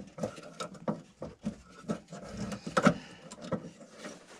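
Small irregular clicks and rubbing of a plastic lock clip being worked onto a fuel line quick-connect fitting at the fuel filter, with a sharper click a little under three seconds in.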